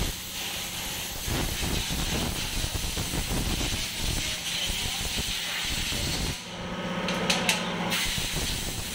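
Steady hiss of a high-pressure spray, cut briefly about six and a half seconds in, when a low hum and a couple of clicks are heard, then starting again.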